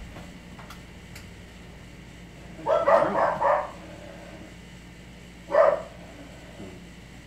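A dog barking: a quick run of several barks, then one more bark about two seconds later.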